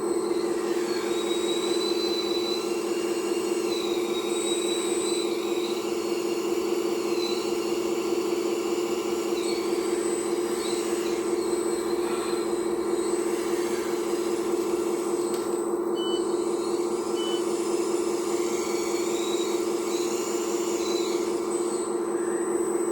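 Radio-controlled hydraulic excavator running: its pump motor holds a steady electric hum while higher whines rise and fall as the boom, arm and bucket move.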